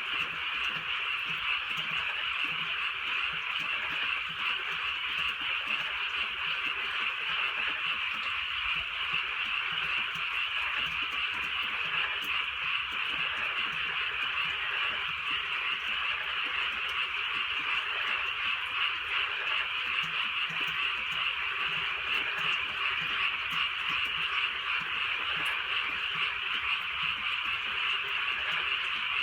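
A dense chorus of many frogs calling at once on a rainy night. The calls merge into a steady, unbroken trilling wall of sound.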